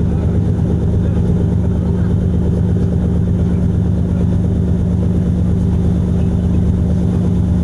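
Ferry's diesel engine running steadily with a deep, even low hum.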